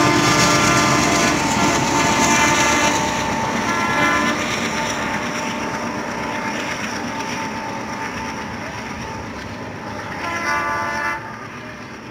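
Passenger train running along the track and drawing away, its rumble fading steadily. The locomotive's horn sounds for the first few seconds and again briefly near the end.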